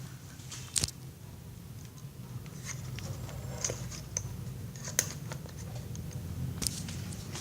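56-inch KDK industrial ceiling fan running with a steady low whir, with scattered sharp clicks and ticks over it, the loudest just under a second in, about five seconds in and near the end.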